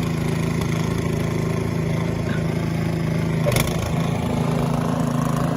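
An engine running steadily, with a brief knock about three and a half seconds in.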